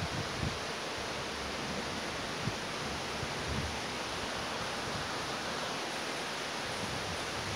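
Rain falling steadily, an even hiss, with a few soft low thumps.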